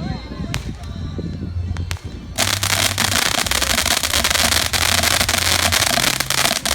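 Fireworks going off: a few separate sharp pops, then about two and a half seconds in a loud, dense, rapid crackling starts and keeps on.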